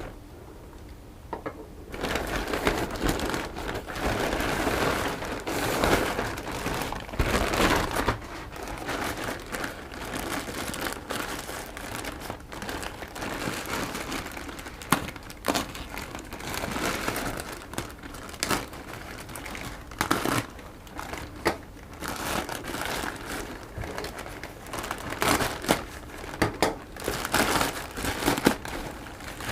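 Parcel packaging being opened by hand: irregular crinkling and rustling with scattered sharp clicks, starting about two seconds in.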